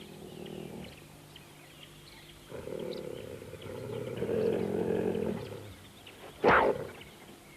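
Cheetah growling low for about three seconds, then giving one short, sharp snarl near the end.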